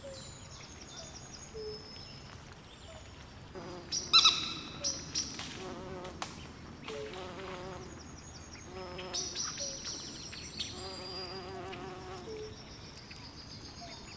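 Night swamp chorus of frogs trilling and insects chirping in overlapping, repeated calls, with one louder call about four seconds in.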